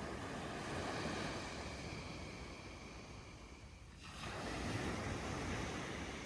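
Sea waves breaking on a beach, the surf swelling and washing back. The sound changes abruptly about four seconds in, then swells again.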